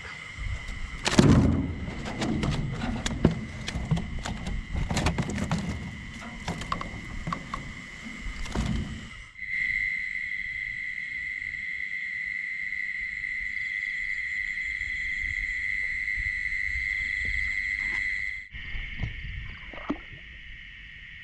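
Night insects, crickets or similar, chirring steadily in a high even tone. During the first half, irregular knocks and rustling, splashy handling noises come from the boat.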